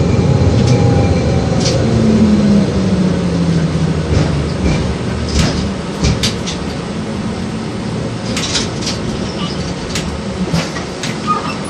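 An LVS-86K articulated tram running along the track, heard from inside: a steady rumble of the wheels on the rails, a low motor hum in the first few seconds, and scattered clicks and knocks.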